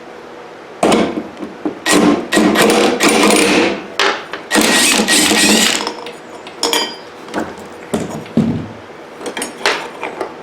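Power tool, an impact wrench, run in three bursts of one to two seconds to loosen the spindle pulley nut on a riding mower deck, followed by a few short metallic knocks of tools.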